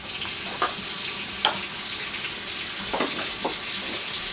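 Food frying in a pan on the stove: a steady sizzling hiss with a few short clicks.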